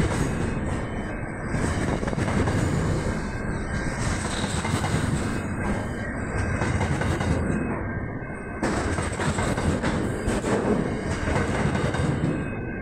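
Double-stacked container freight train passing close by at speed: a steady, loud rumble and rattle of wagon wheels on the rails, with a faint high steady squeal over it.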